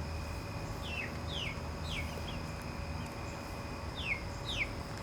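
Young chickens peeping: about six short, high calls, each sliding downward, four in quick succession about a second in and two more near the end, over a steady low hum.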